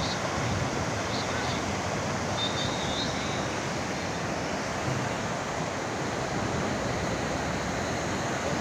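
Heavy rain and running floodwater: a steady, even rushing hiss.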